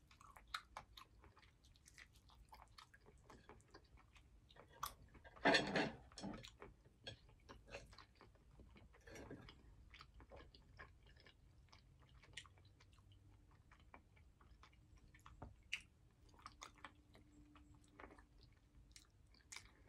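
A person chewing and biting on fried chicken and other food close to the microphone, with many small mouth clicks. There is one louder moment about five and a half seconds in.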